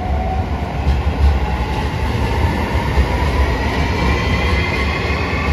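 JR Shikoku 7200 series electric train running past along the platform: a steady low rumble of wheels on rail, with a faint high whine above it.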